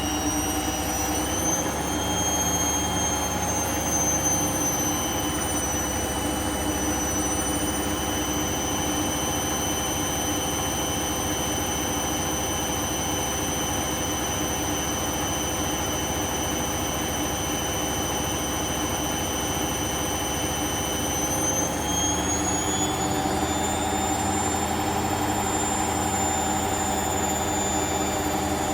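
Hoover washing machine in its final high-speed spin, rated at 1000 rpm: the drum and motor run with a steady high whine over a rushing hum. The whine rises slightly in pitch about three-quarters of the way through.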